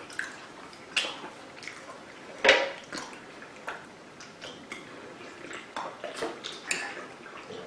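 Sounds of eating and handling food at a table: a string of scattered clicks and light clatters, the loudest about two and a half seconds in.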